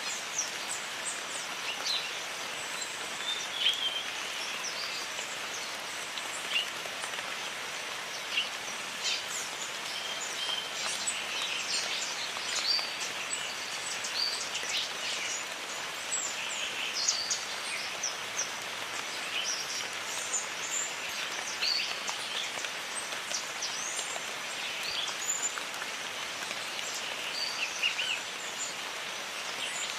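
Steady rain falling on foliage, with many short bird chirps and calls scattered throughout.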